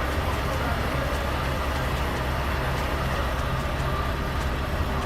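Truck engine idling steadily, a low even hum with no change in pitch.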